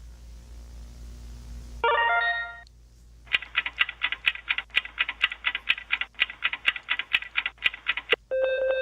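A short falling chime, then a bell ringing rapidly at about five strikes a second for nearly five seconds, like an old telephone bell, with a brief break partway; a steady held tone sounds near the end.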